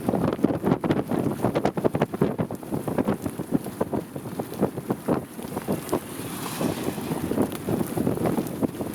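Strong gusty wind buffeting the microphone, a rough rumble that surges and drops in quick, irregular gusts.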